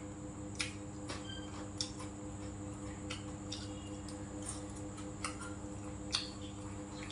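A person chewing food, with short wet mouth smacks and light clicks every half second to a second, over a steady electrical hum.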